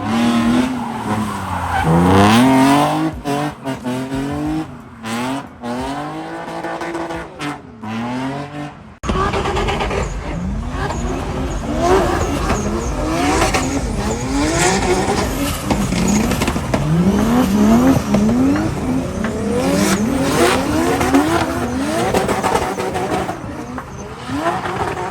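Drift cars' engines revving hard, the pitch climbing and dropping through repeated throttle blips and gear changes, with tyre squeal. About nine seconds in the sound changes abruptly, and after that several short rising revs follow one another over a thicker rumble.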